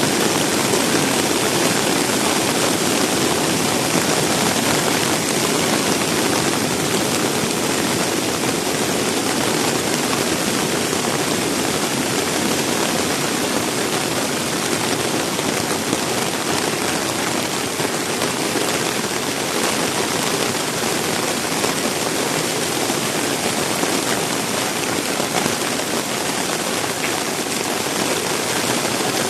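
Heavy rain pouring down with strong wind, a loud, steady rushing noise that does not let up.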